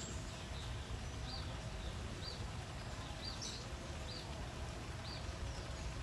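A small bird gives short, high chirps, repeated roughly once a second, over a steady low background rumble.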